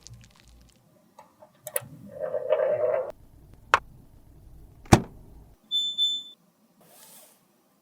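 Close-up handling of cosmetics and tools: several sharp clicks and taps, a brief scraping rustle about two seconds in, and a short high beep around six seconds in.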